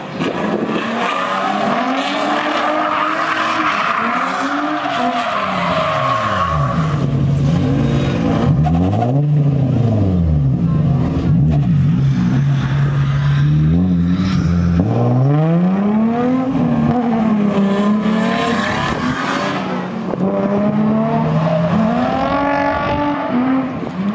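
Nissan 350Z's 3.5-litre V6 engine revving hard while drifting, its pitch swinging up and down over and over with a steadier held stretch near the middle, and the tyres screeching as the car slides.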